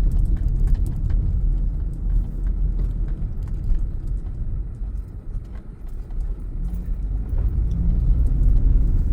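Low, steady rumble of a car on the move, easing off about halfway through and building again near the end.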